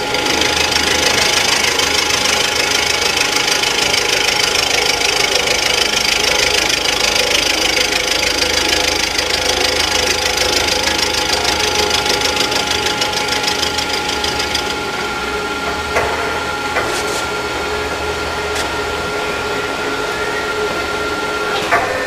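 Rottler F90Y CNC engine-machining centre running, a steady whine over the hiss of a cutter working metal. The cutting noise eases about 15 seconds in, followed by a few sharp clicks.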